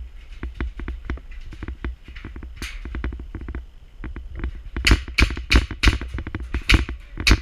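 Airsoft guns firing: a fast run of fainter shots for the first few seconds, then about eight loud, sharp shots close by in the last two and a half seconds.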